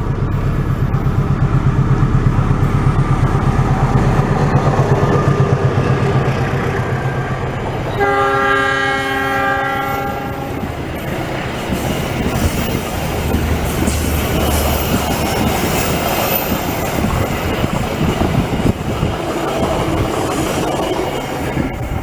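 Diesel-electric locomotive approaching with its engine throbbing. About eight seconds in it sounds a chord horn for roughly two and a half seconds, then the train passes with wheels clattering over the rail joints and the cars rumbling by.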